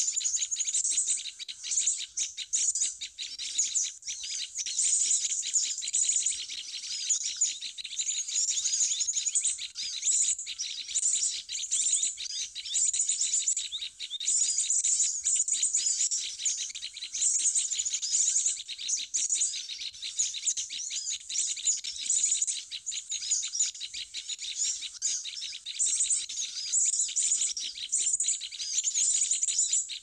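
Small birds chirping and twittering, high-pitched, in quick runs of sharp notes that follow one another without a pause.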